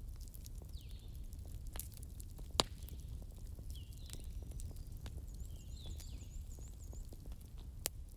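Fireplace crackling: a steady low rumble with many small crackles and two sharp pops, about two and a half seconds in and near the end. Short high chirps recur every couple of seconds, with a quick trill in the second half.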